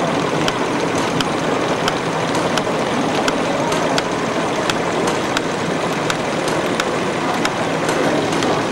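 Small model heat engine running, with a steady rushing noise and a sharp, regular tick about two to three times a second.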